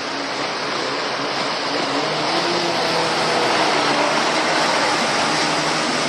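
Steady rushing noise with a faint motor drone whose pitch drifts slowly: a boat running on the lake.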